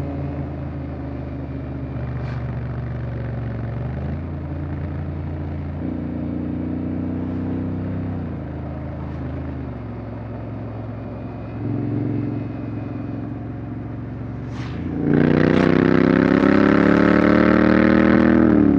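Honda X-ADV 750's parallel-twin engine running at low, steady revs. About fifteen seconds in it opens up under throttle, much louder and rising in pitch, and drops back just before the end.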